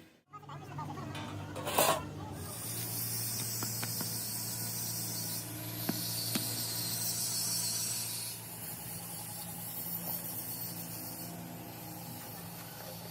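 A steady hiss, with a low machine hum beneath it. The hiss starts about two seconds in and gets weaker after about eight seconds.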